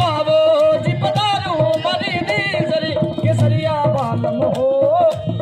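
Rajasthani folk music: a singer's ornamented, wavering melody over a held drone, with a hand drum beating steadily underneath.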